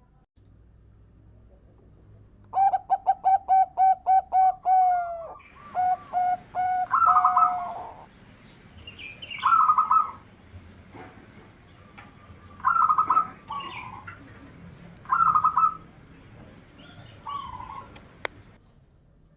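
Zebra dove (perkutut) calling: a quick run of about ten short, clipped notes, then several separate cooing phrases spaced a couple of seconds apart. A single sharp click sounds near the end.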